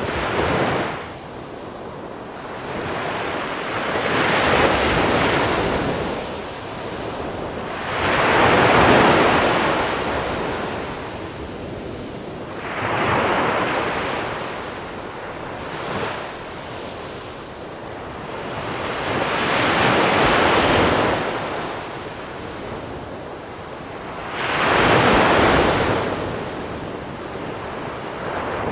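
Sea waves rolling in and washing over a small-pebble beach, about six in turn, each swelling to a rush and then drawing back every four to five seconds.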